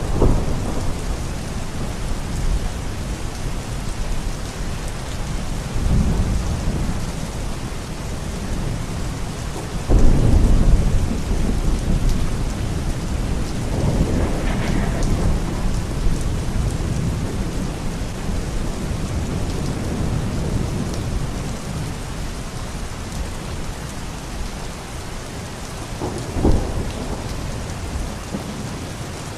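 Steady rain falling, with several rolls of thunder. The loudest starts suddenly about a third of the way in, and a short sharp crack comes near the end.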